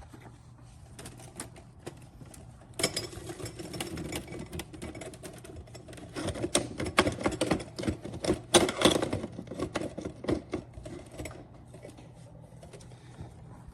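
Clicking, knocking and rattling of a pre-filled portafilter being handled and twisted to lock into a compact espresso machine's group head. The clicks come in a dense run through the middle.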